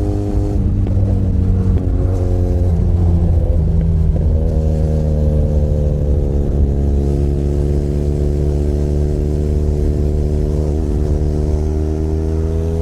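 Benelli Leoncino 500 Trail's parallel-twin engine running under way. Its pitch steps up and down several times in the first few seconds, then holds steady with only a slow drift before shifting again near the end.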